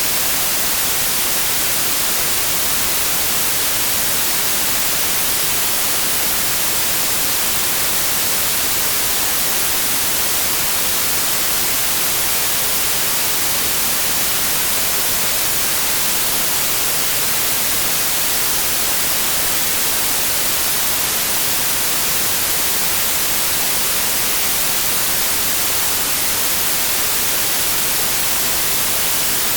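Steady white noise: an even, unchanging hiss spread across all pitches, brightest at the top.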